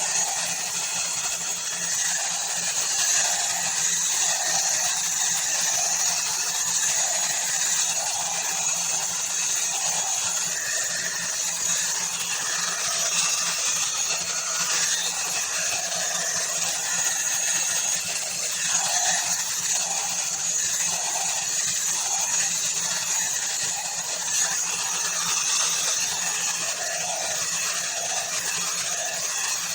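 Ubeator hot air brush (hair dryer and styler) running: the steady whir of its fan motor and a high hiss of blown air, the tone wavering a little throughout.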